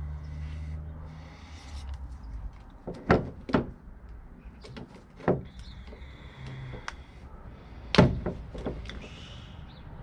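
A low steady hum that stops a little over a second in, then about five sharp knocks and bangs, the loudest around three seconds in and again near eight seconds, with faint scraping between them.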